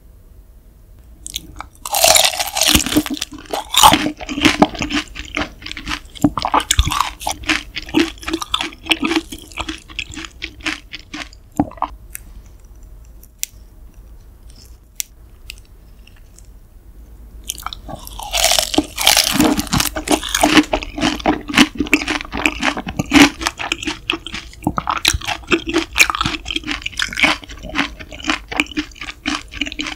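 Close-miked chewing of grilled daechang (large intestine): dense wet, crunchy mouth sounds in two long spells of chewing, with a pause of a few seconds in the middle.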